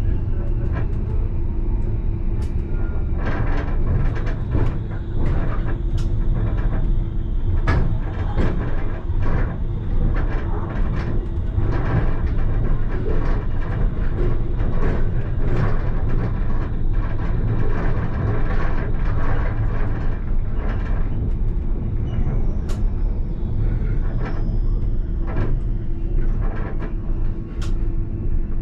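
Alstom Citadis tram running, heard from the driver's cab: a steady rumble of wheels on rail with a constant hum and many short clicks and knocks from the track.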